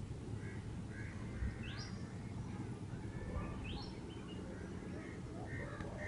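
Birds chirping, with two quick rising calls, over a steady low rumble.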